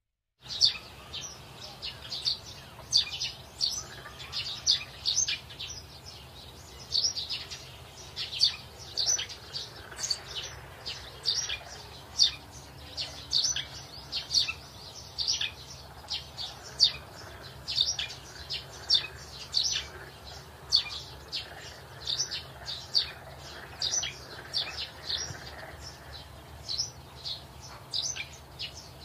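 Small birds chirping, short high calls coming two or three a second throughout, over a faint steady low background hum.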